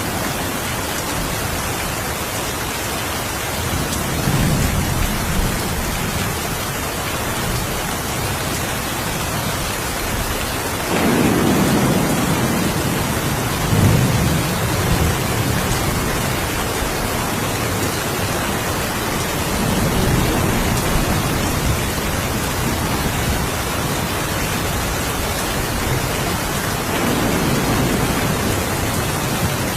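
Steady rain hissing, with low rolls of thunder swelling up several times; the loudest roll comes around the middle.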